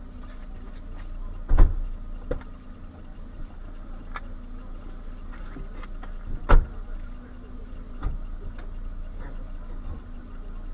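Car interior heard through a dashboard camera: a steady low rumble of the moving car, with two sharp knocks about a second and a half and six and a half seconds in, and a few lighter clicks between.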